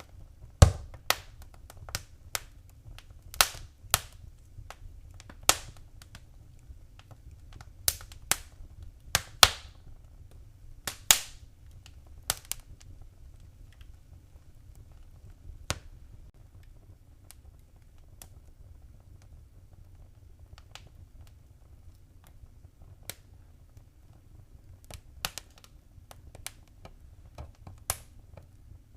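Wood fire in a fireplace crackling: sharp, irregular pops and snaps over a low steady rumble of flame, with a thick run of pops in the first half and only scattered ones later.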